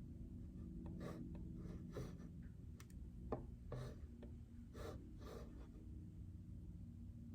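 Muted keystrokes on a JJK84 mechanical keyboard with Outemu Silent Peach silent linear switches. The keys are pressed sparsely and irregularly, a few soft taps and clicks a second, over a steady low hum.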